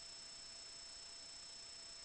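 Faint, steady electronic hiss with a constant high-pitched whine: the noise floor of the sewer-inspection camera's recording, with no other sound.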